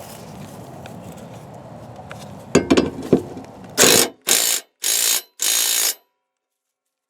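Hand ratchet wrench worked in four quick strokes, its pawl clicking on each stroke, after two sharp knocks of the socket or tool against metal.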